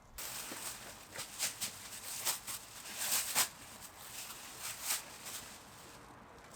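Water splashing and sloshing in a container: a rushing noise broken by many irregular splashes.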